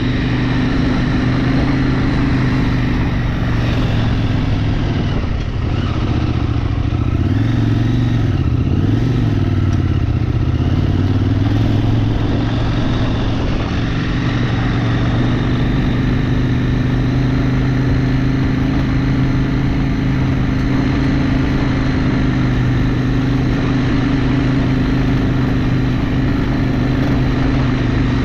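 Vehicle engine running steadily under way, with the revs dropping and picking back up once or twice about a third of the way in.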